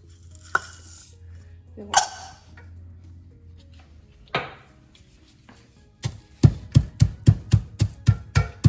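Three separate sharp knocks of kitchen utensils over a faint low hum. About six seconds in, background music with a quick percussive beat begins, about three to four beats a second.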